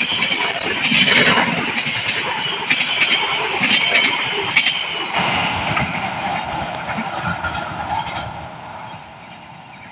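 Train passing close by, its wheels clicking over the rail joints; the noise drops off sharply near the end.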